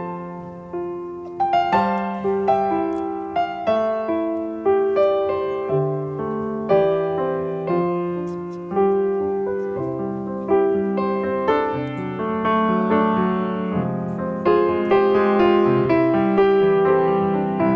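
Background piano music: a slow melody of struck notes, each fading after it is played.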